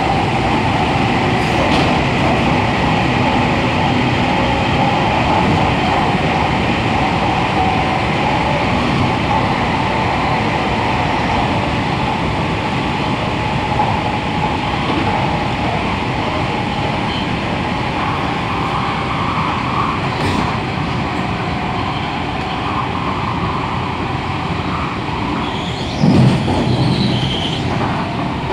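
MTR Tung Chung Line A-Train electric multiple unit running on the line, heard aboard: steady rumble of wheels on rail with a steady whine. A brief louder jolt comes near the end.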